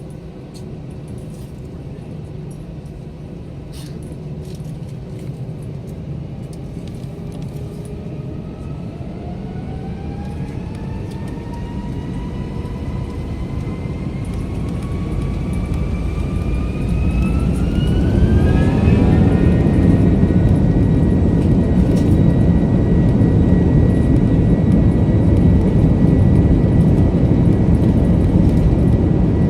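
Airliner jet engines spooling up for the takeoff roll. A whine climbs steadily in pitch for about ten seconds, then holds steady while a loud low rumble builds and stays at full power.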